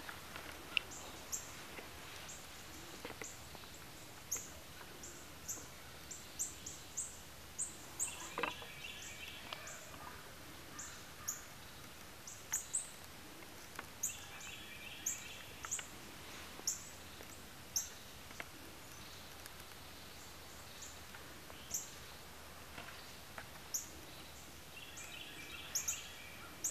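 Birds calling faintly in woodland: sharp high chips scattered irregularly throughout, and a short rapid chattering call three times, several seconds apart.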